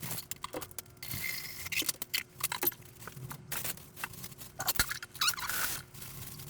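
Small plastic clicks, knocks and rattles as the parts of a Sage Bambino espresso machine are handled and fitted back in place, with two short stretches of hissy rustling.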